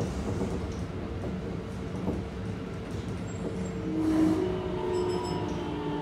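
Running noise inside a Keikyu 1500 series train car with Mitsubishi GTO-VVVF drive: a steady rumble of wheels on rail that grows louder about four seconds in as the train enters a tunnel, with a faint whine starting then.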